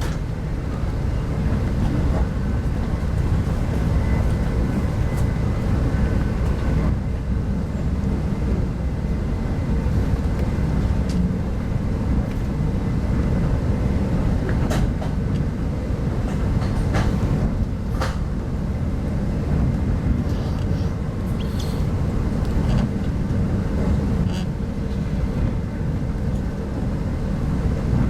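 Steady low rumble of a 25T passenger coach running at speed, heard from inside the carriage, with a few sharp clicks scattered through it.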